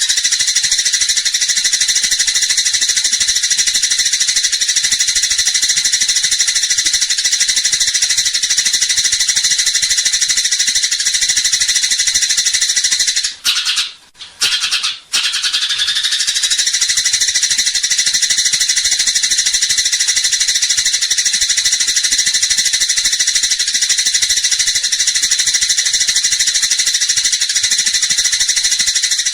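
Gereja tarung sparrow chattering in a fast, dense, unbroken stream of high chirps. The chatter drops out for about a second and a half near the middle, then starts again.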